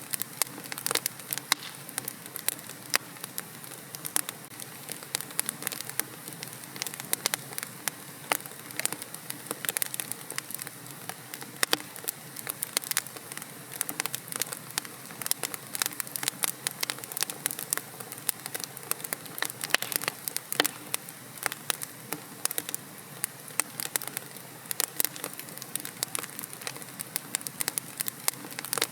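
Fire in a fireplace crackling: a dense, uneven run of sharp pops and snaps, several a second, over a steady soft hiss.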